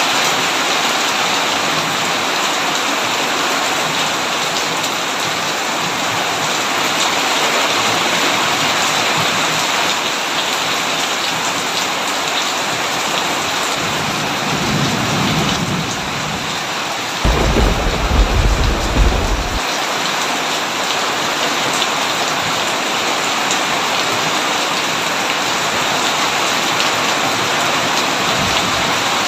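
Steady heavy rain on a tin roof. Just before halfway a low thunder rumble builds, then breaks into a loud, deep thunderclap for about two seconds that stops suddenly.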